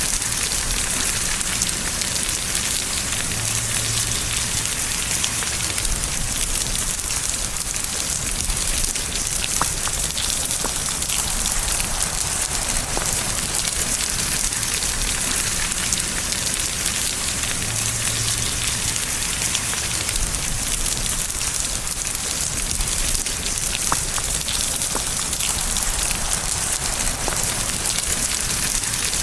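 Steady rain falling: an even, constant hiss of many drops, with no change in strength.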